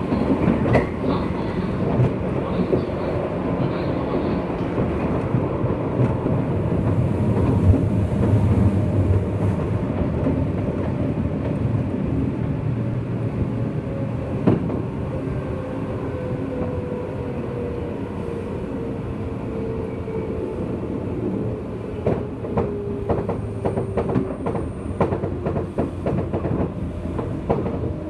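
Interior running noise of a JR West 201 series electric train riding in a motor car: steady wheel and motor rumble with a whine that slowly falls in pitch through the second half as the train eases its speed. Near the end, a run of sharp clicks from wheels crossing rail joints.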